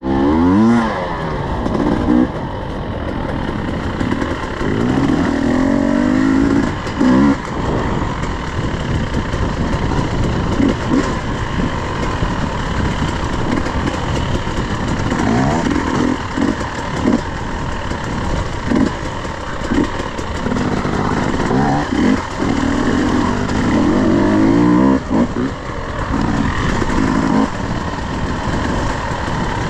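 Off-road dirt bike engine revving up and down repeatedly while riding a trail, its pitch climbing and falling with frequent short bursts of throttle.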